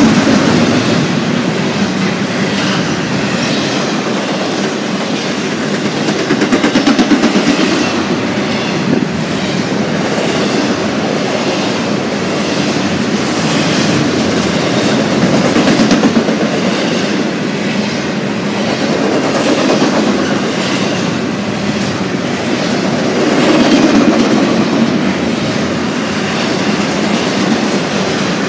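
Intermodal freight train's double-stack container well cars and trailer-carrying flatcars rolling past, steel wheels clattering over the rail joints. The rumble swells and fades in waves every several seconds.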